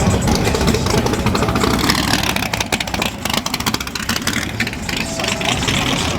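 Car engine running and revving, with a rapid run of exhaust pulses in the middle.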